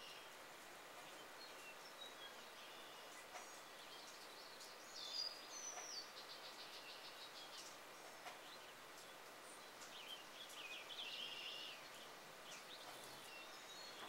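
Faint bird chirps over a steady outdoor hiss, with a short, rapid chattering call about five seconds in and another cluster of chirps around ten to twelve seconds in.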